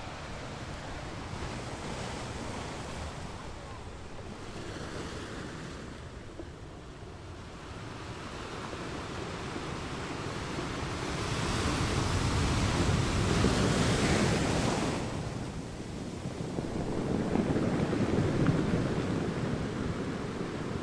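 Sea waves washing in, a steady wash that swells into a louder wave about halfway through and another near the end.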